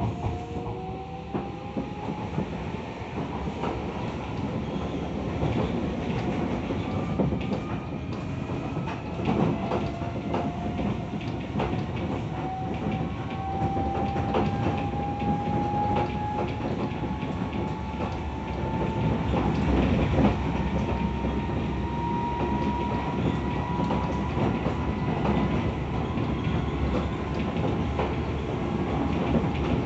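Tokyo Metro 17000 series electric train running, its motor whine climbing slowly and steadily in pitch as it gathers speed, over a constant rumble with wheels clacking over rail joints.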